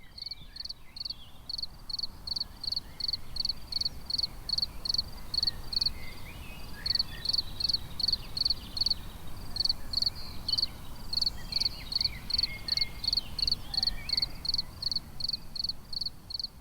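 Cricket chirping at night: a steady run of short, high chirps, about three a second, with a couple of brief pauses. The chirps are made by rubbing its front wings together, a comb-like edge on one wing against a scraper on the other. It is the male's mating call.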